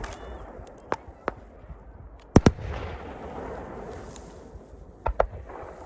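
Aerial fireworks bursting: a loud double bang about two seconds in and another pair near the end, with lighter cracks and crackling between.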